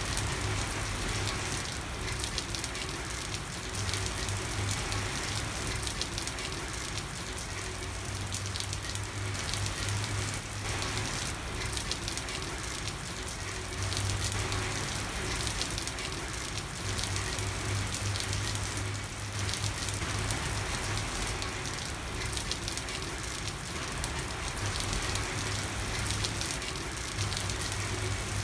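Steady rain falling on a street: a dense, even patter of drops with no pauses. A low hum comes and goes underneath it.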